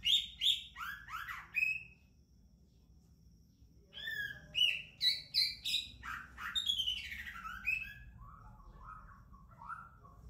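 White-rumped shama singing its courting song: a quick burst of loud, clear whistled notes, then after a pause of about two seconds a longer, varied run of rising and falling whistles that ends in lower, softer notes.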